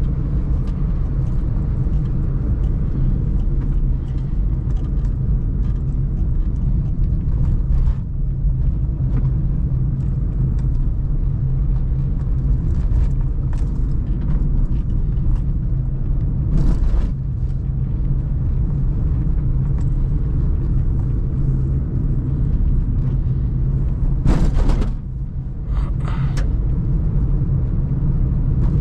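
Suzuki Celerio driving in city traffic: a steady low engine and road rumble, with a few brief, sharper noises from passing traffic about halfway through and again near the end.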